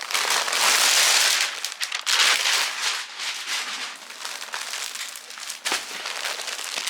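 A parcel mailer bag being torn open by hand, then rustled and crinkled as it is handled. The tearing and rustling is loudest for the first two seconds and then goes on more softly with scattered crackles.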